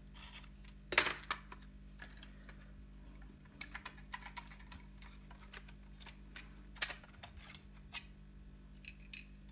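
Plastic radio-transmitter case and parts being handled: one sharp click about a second in, then scattered lighter clicks and taps.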